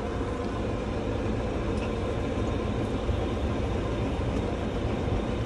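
Farm tractor engine running steadily under way, an even low rumble with no change in speed.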